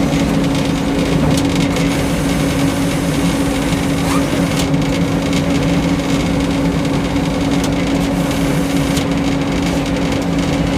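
Power unit of a Frick sawmill running at a steady speed, with a few light knocks.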